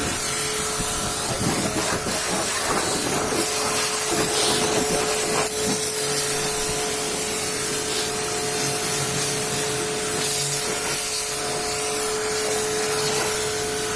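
High-pressure washer jet spraying water in a steady hiss, with the machine's steady whine underneath.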